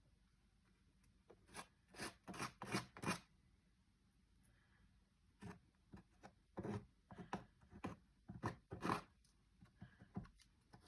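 Short scraping strokes of a putty knife against the wooden cabinet side, working wood filler into screw holes that the dishwasher's mounting screws have worn loose. A flurry of strokes comes about two seconds in, then a pause, then more scattered strokes in the second half.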